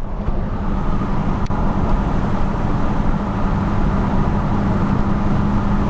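1995 Chevy 1500's 6.5-litre turbo diesel running steadily with road noise while driving, heard from inside the cab with the window down. There is a faint click about a second and a half in.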